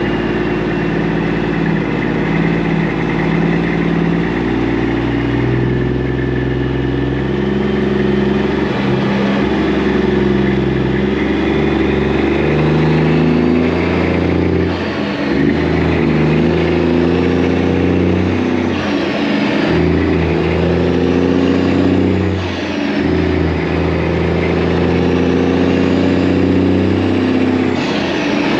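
Semi-truck diesel engine running under way, its pitch shifting in steps every few seconds, with a faint high whistle rising and falling over it in the second half.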